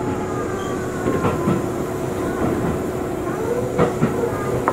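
Tobu Railway electric train running, heard from inside the car: a steady rumble of wheels on rail with a held hum and a faint whine that rises and falls. Paired clacks over rail joints come about a second in and again near the end.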